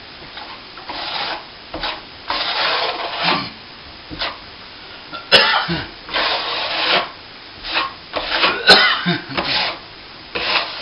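A hand tool worked in repeated back-and-forth strokes over a hardened plaster patch on a plasterboard wall, each stroke a short noisy scrape lasting under a second. Two sharp clicks come about five and nine seconds in.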